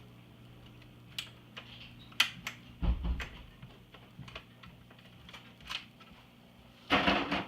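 Scattered sharp clicks and taps of a screwdriver and loose parts against an iMac G3's plastic casing, with a low thump about three seconds in and a louder burst of scraping and rattling near the end.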